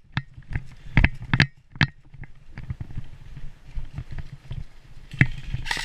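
Footsteps of a player moving over rough ground, about two and a half steps a second at first, then softer and more irregular. Right at the end an airsoft electric gun starts firing on full auto, a fast rattle.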